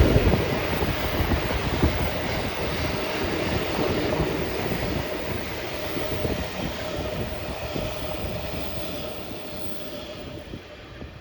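Freight train of empty long-rail flat wagons hauled by a DD51 diesel locomotive rolling past, wheels clattering over the rail joints, with a faint steady whine. The sound fades steadily as the train moves away.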